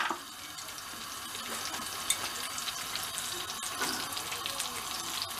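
Halved tomatoes sizzling in hot meatball fat in a frying pan, a steady hiss.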